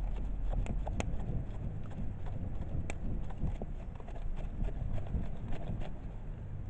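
Wood fire crackling in an outdoor kamado stove: irregular sharp pops and snaps, the loudest about a second in and again near three seconds, over a low steady rumble.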